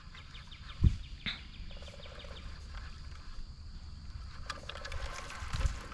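Lakeside wildlife sounds: a steady high insect drone with scattered bird chirps and short pulsed calls. A single low thump comes about a second in.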